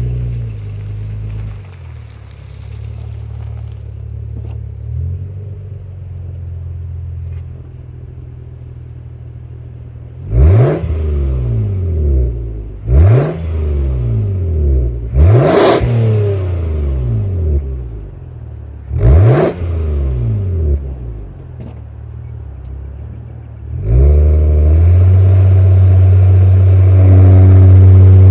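Exhaust of a 2005 Lexus ES330's 3.3-litre V6 through a Valvetronic 2.5-inch universal muffler: idling, then four quick revs that rise sharply and fall back to idle. Near the end the engine is brought up and held at a steady higher speed.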